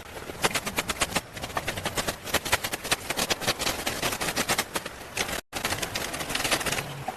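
Rapid, irregular knocking and clicking of hard objects, several strikes a second; it cuts out for an instant about five and a half seconds in.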